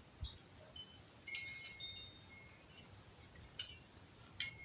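Light metallic chimes struck a few times, about a second in, again past three and a half seconds and near the end, each strike leaving several high, clear tones ringing on.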